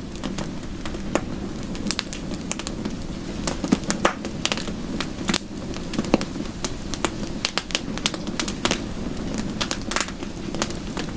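Wood fire crackling, with irregular sharp pops and snaps over a steady low rushing hiss.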